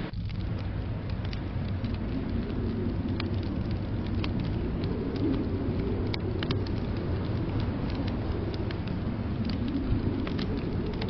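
Wood fire crackling, with scattered sharp pops and snaps, over a low, steady rumble of blizzard wind that swells and eases every few seconds.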